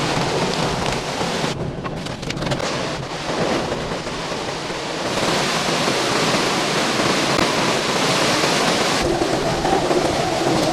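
Hurricane wind and heavy surf: a dense, continuous rush of storm noise whose character shifts abruptly about a second and a half in, again about five seconds in and near the end.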